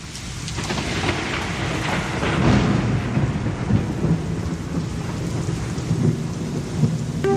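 Thunder rumbling over steady rain, swelling in over the first couple of seconds.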